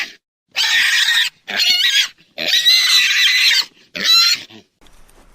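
An animal giving four loud, harsh, high-pitched squealing calls in quick succession, the third the longest, the last a short one about four seconds in.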